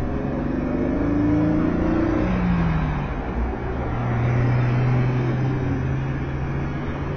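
Triumph Tiger Explorer 1200's three-cylinder engine accelerating, its pitch rising over the first couple of seconds, then settling into a steady running note.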